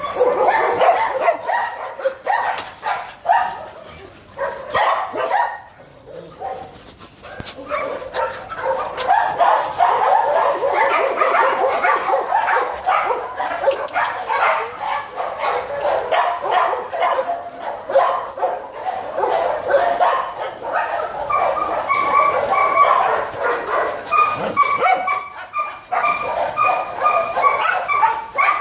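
Dogs barking and yipping over one another almost without a break, with a brief lull about a fifth of the way in. In the last several seconds, repeated short high-pitched whines join the barking.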